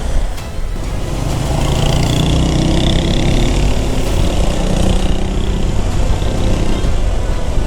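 A motor vehicle engine running steadily, with road and traffic noise.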